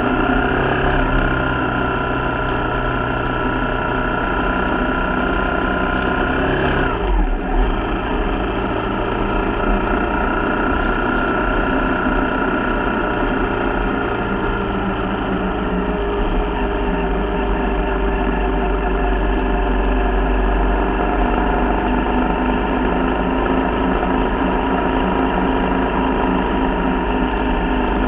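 Corven Triax 150 motorcycle's single-cylinder engine running steadily while riding at town speed. The engine note drops and picks up again about seven seconds in.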